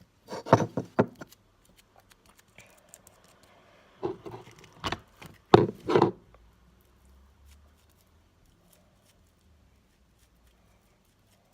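Handling noises from craft work: two short clusters of quick knocks and rubbing, one about half a second in and another from about four to six seconds in.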